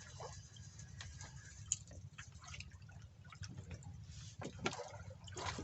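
Water dripping and splashing in small irregular drops, with scattered sharp clicks, over a steady low rumble.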